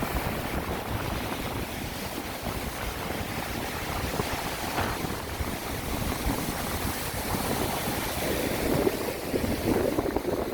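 Wind buffeting the microphone over the steady rush of sea surf, with stronger gusts near the end.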